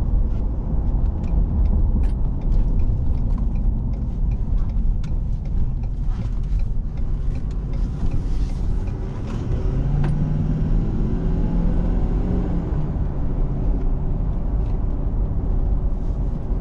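Ford 6.7-litre Power Stroke V8 turbo diesel of a 2019 F-250 Super Duty running, a steady low rumble. About ten seconds in, an engine drone comes up more strongly for a few seconds.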